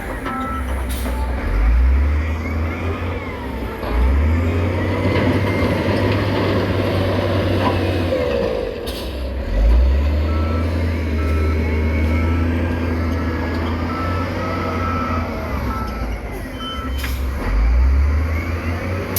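Heavy diesel construction machinery running, the engine revving up hard several times. A reversing alarm beeps at an even pace, roughly one beep a second, near the start and again through the middle and later part.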